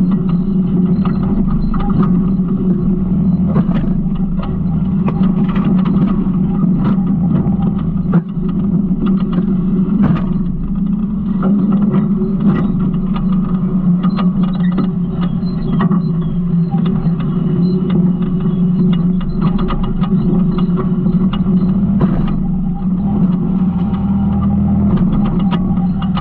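Garbage truck's engine running steadily, with frequent short clicks, rattles and creaks from the truck's body and mechanism.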